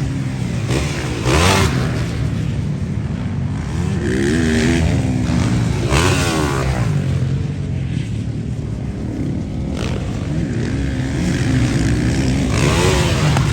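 Motocross bikes running on a dirt track, engines revving up and down several times over a steady low drone.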